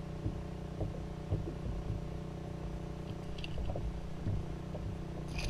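Motorboat engine running steadily, a low hum, with a few light knocks and low rumble beneath it.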